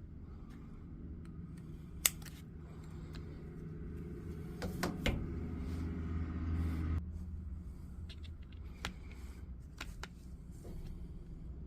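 Light clicks and taps of small tools and parts being handled at a workbench during a soldering repair, over a steady low hum that swells louder for a couple of seconds in the middle.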